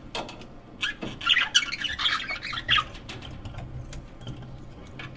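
Budgerigar chattering in a quick run of squawky calls, busiest from about one to three seconds in, with short clicks around it.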